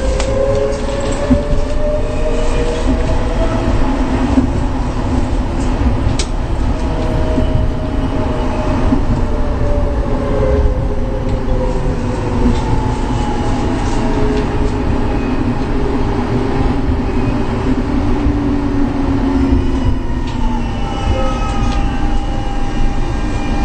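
A rail vehicle running, heard as a steady rumble with whining tones that slowly rise and fall, and a few sharp clicks.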